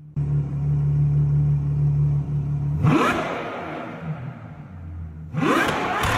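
Ferrari 812 Superfast Novitec N-Largo's 6.5-litre V12 idling steadily, then revved twice: a sharp rev rising in pitch about three seconds in, and another a little after five seconds, each dying away afterwards.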